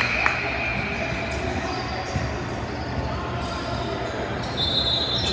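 Basketball game in a gym: a ball bouncing on the hardwood over a steady hum of the crowd and the hall, with a few sharp knocks near the start and a brief high tone near the end.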